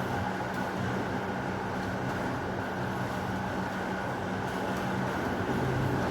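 Heavy rain falling steadily in an even hiss, with a low, steady rumble underneath.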